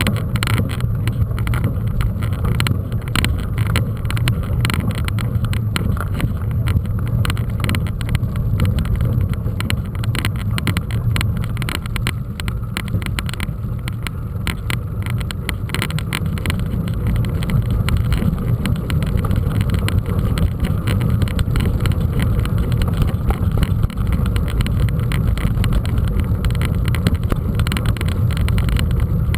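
Steady low rumble of wind buffeting the microphone and tyres rolling over rough ground during a mountain-bike ride.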